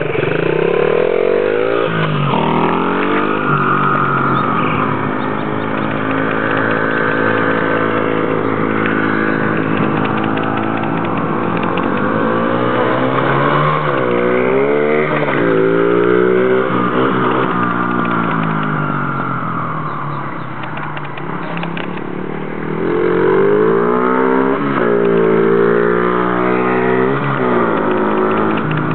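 Small Baja mini dirt bike's single-cylinder engine being ridden, its note rising and falling again and again as the throttle is opened and eased off, with the sharpest sweeps in the second half.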